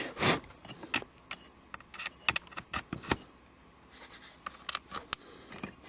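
Scattered small clicks and taps as separate detail parts are fitted back onto a model train log car by hand, the strongest just at the start.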